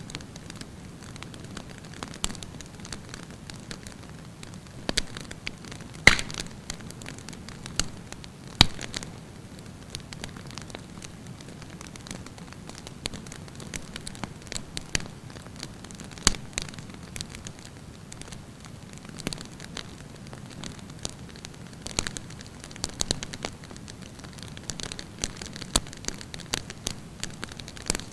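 Wood campfire burning with a steady low hiss and frequent crackles, the loudest pops about six and eight and a half seconds in.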